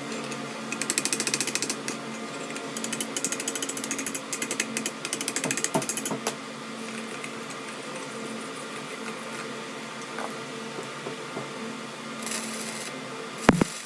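A workshop machine hums steadily. Over it come two spells of rapid clicking in the first half, and a single sharp knock near the end.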